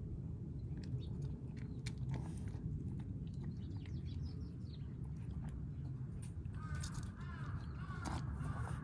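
Stray kittens eating, chewing with scattered sharp crunches and clicks over a steady low rumble. Near the end come short wavering chirps.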